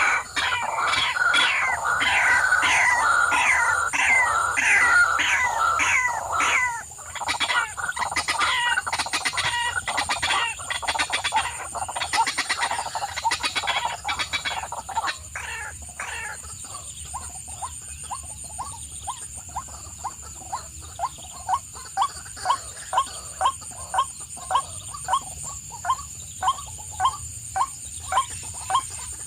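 Birds calling: a dense chorus of quick, falling calls for roughly the first half, then a single short call repeated evenly about one and a half times a second, over a steady high-pitched hum.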